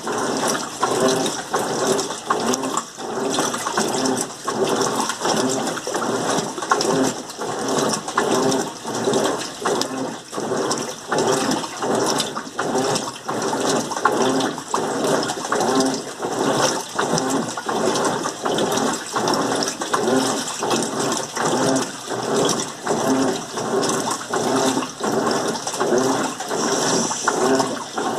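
Electrolux LM08 washing machine agitating in its Turbo stage during a rinse, water sloshing back and forth in a steady rhythm of about one and a half surges a second.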